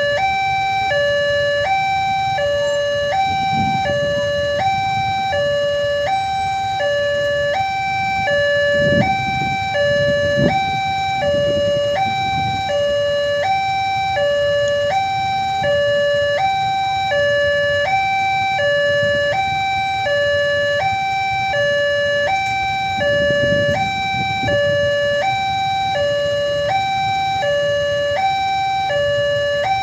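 Railway level-crossing warning alarm ringing: an electronic two-tone signal switching back and forth between a higher and a lower tone about every 0.7 s, repeating without a break, the sign that the crossing is closing for an approaching train. Low rumbles swell and fade underneath a few times.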